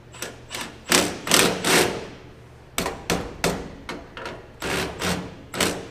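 Hammer blows on metal parts of a truck, about a dozen sharp strikes in groups of three or four, roughly three a second.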